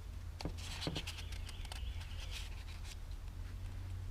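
Paper rustling and crinkling with small scattered clicks, as stuck wax paper is picked at and peeled off an old book page, over a low steady hum.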